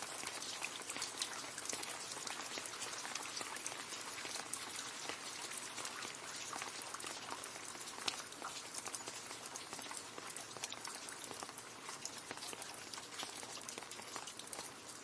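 Steady rain falling into a puddle: a dense, even hiss of many small drop splashes, with single louder drops standing out now and then.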